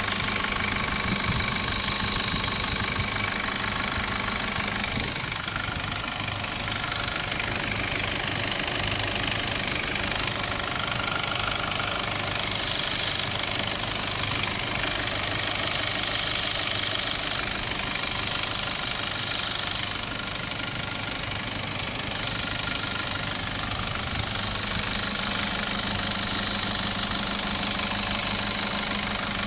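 Nissan Patrol ZD30 3.0-litre four-cylinder turbodiesel idling steadily, run as a test once the new engine mounts are fitted.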